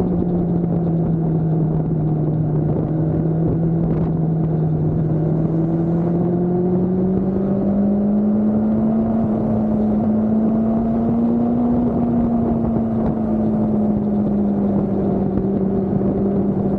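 Motorcycle engine running at a steady cruise: an even drone whose pitch climbs slowly through the middle and then eases back.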